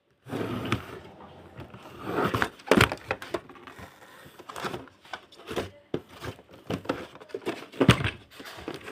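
Hands opening toy packaging: plastic and cardboard rustling, broken up by sharp clicks and knocks. The loudest knocks come about three seconds in and again near eight seconds.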